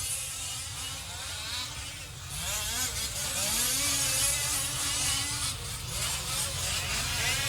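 Several 1/5-scale gas RC trucks' small two-stroke engines buzzing together, their pitch rising and falling as the drivers throttle up and lift off around the track.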